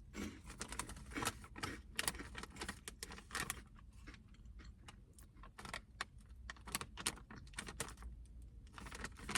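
Quiet, irregular crisp crackles and clicks of light, airy cauliflower-corn-rice puffs being handled and crunched.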